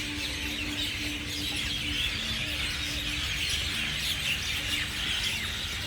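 Many small birds chirping at once, a dense, continuous chorus of short high chirps.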